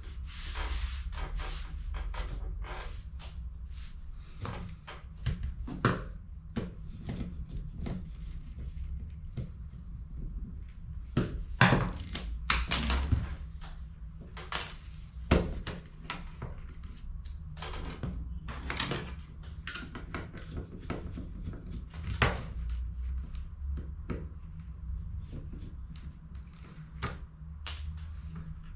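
Hands working on HP CE285A toner cartridges: irregular plastic clicks, knocks and rattles as parts are handled, over a low steady hum.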